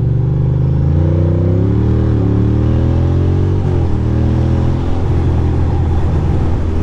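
2006 Ducati Monster 620's air-cooled V-twin engine pulling away from a turn, with revs rising and falling through two upshifts about two and four seconds in, then running steadily.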